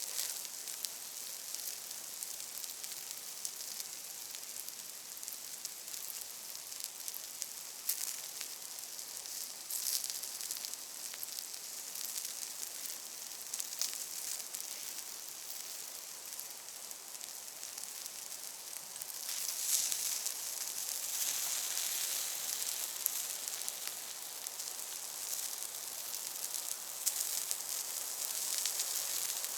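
Meat sizzling over a campfire as its fat cooks out, with scattered crackles from the fire. The sizzle grows louder about two-thirds of the way through.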